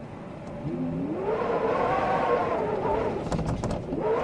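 Storm wind howling in gusts, a pitched moan that swells upward, holds and sinks, then rises again near the end. A few quick clicks come about three and a half seconds in.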